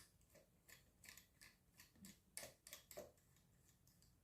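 Faint, scattered small metallic clicks and ticks of pliers gripping and turning out the screws of a pedestal fan's motor cover.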